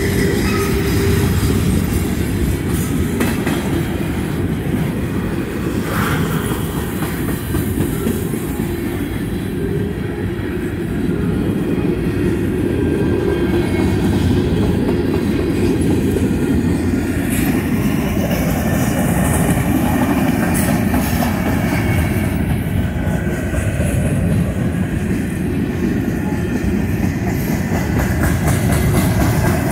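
Freight train of covered hopper grain cars rolling past: a steady low rumble of steel wheels on the rails.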